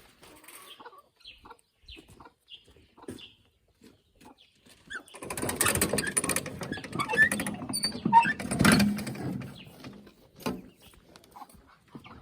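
A spade scraping and scooping old sawdust bedding out of a chicken house, loud for about four seconds from around the middle, with light scattered knocks before it. Chickens cluck here and there.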